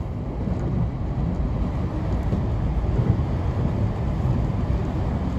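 Steady low rumble of a JR 521 series electric train running at speed, heard from inside the carriage.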